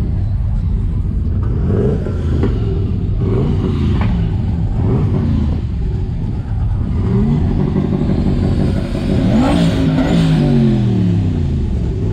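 Truck engine revving hard several times, its pitch climbing and dropping with each rev. The longest and loudest rev comes near the end.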